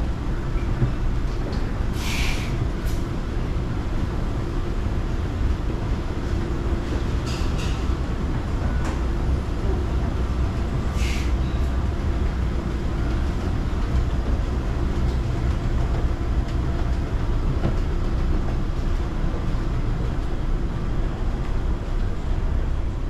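Steady low rumble of city street traffic, with three short hisses about 2, 7 and 11 seconds in.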